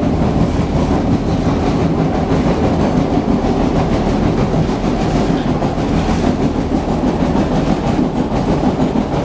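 Rapid-transit train car running along the track, heard from inside the car: a steady, loud rumble of wheels on rails with a low hum and some clickety-clack.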